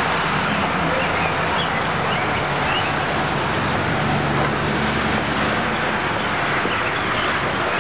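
Steady noise of a car engine running close by, a low even hum under a hiss.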